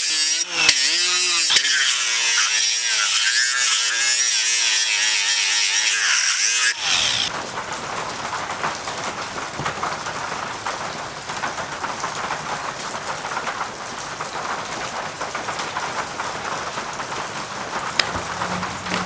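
Power tool with a roll-lock sanding disc grinding the steel of an axe head, its loud high whine wavering in pitch as the pressure changes. About seven seconds in it gives way to a quieter, steady, hiss-like sanding noise.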